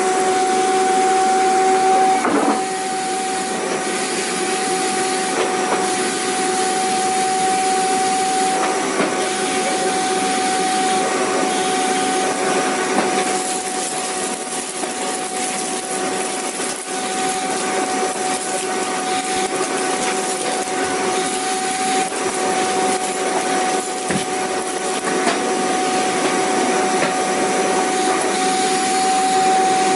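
Vacuum cleaner running steadily: a constant rushing of air with a steady motor whine on top.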